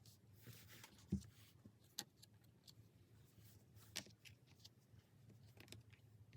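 Tarot cards being handled on a table amid near silence: a soft low thump about a second in, then a few separate light clicks and taps a second or two apart, over a faint steady hum.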